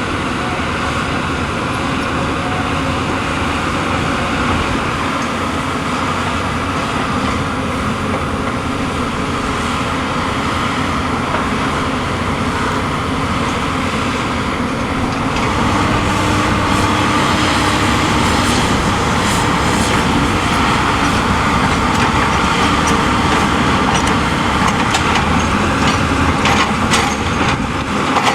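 Steady vehicle traffic noise, a little louder from about halfway through, with a few short clicks near the end.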